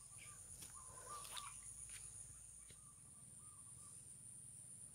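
Near silence, with faint distant bird calls: a few short notes about a second in and again around three seconds in.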